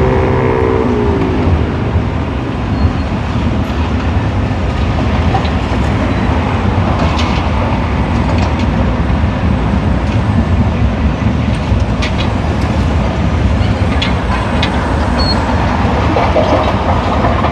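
Heavy diesel demolition plant working, with excavators and a rubble crusher running: a dense, steady mechanical rumble and rattle. An engine note drops in pitch about a second in, and sharp knocks of broken material come now and then.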